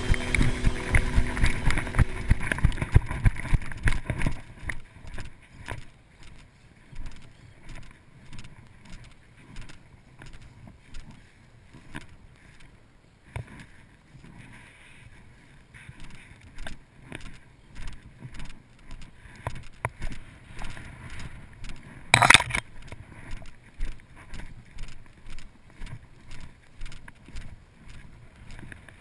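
Music for the first few seconds, then rhythmic footsteps with rustling of clothing and gear, about one step a second. A single sharp, loud noise comes about 22 seconds in.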